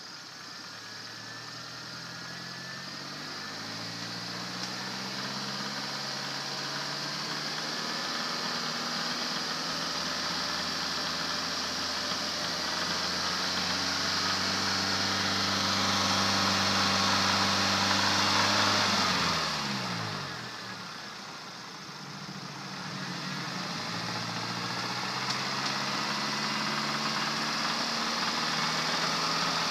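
Kia Forte SX four-cylinder engine being revved slowly higher under throttle. It drops back sharply about two-thirds through, then climbs again. The engine has a spun number 3 connecting-rod bearing, which gives a rod knock under throttle.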